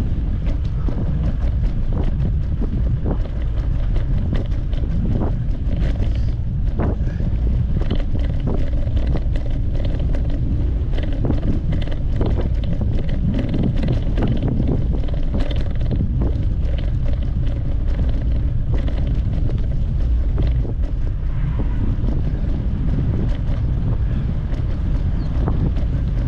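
Wind buffeting the microphone while riding a bicycle: a steady, loud low rumble, with frequent small clicks and rattles throughout.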